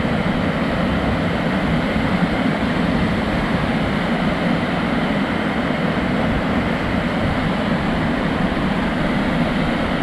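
Unfrozen waterfall rushing steadily, its water pouring down in full flow.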